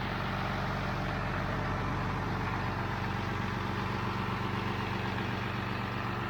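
International Harvester 886 tractor's D-360 six-cylinder diesel running steadily at an even speed.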